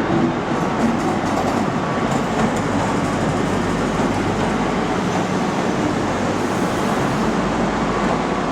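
CrossCountry High Speed Train with a Class 43 diesel power car running into the platform: a steady noise of engine and wheels.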